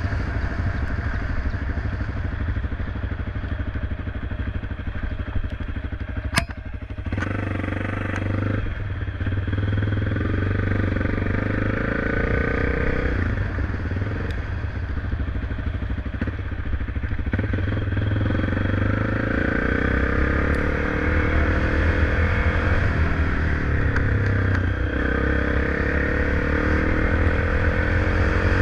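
Motorcycle engine running while riding, with a steady low rumble; its pitch climbs gradually over the last ten seconds or so as it picks up speed. A single sharp click about six seconds in.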